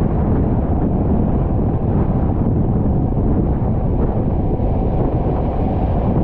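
Wind buffeting the microphone at an open window of a moving passenger train, over the steady rumble of the carriage running on the rails.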